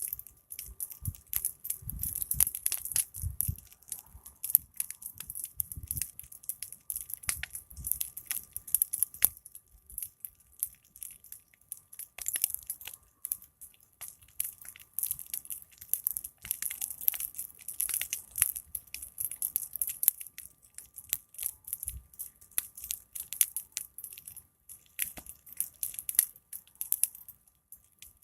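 Big wood fire crackling, with many sharp snaps and pops over a steady high fizz, and a few low rumbles in the first few seconds.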